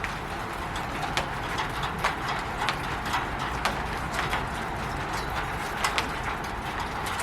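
Rain on a roof: a steady hiss of rainfall with irregular sharper drops tapping on the roof, a few each second.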